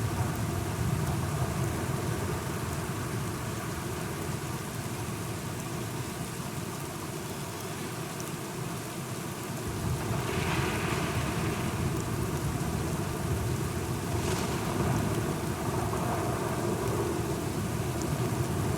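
Steady rain with low rumbling thunder, growing a little louder about ten seconds in.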